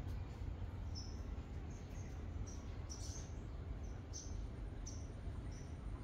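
Small birds chirping, short high notes about twice a second, over a steady low rumble.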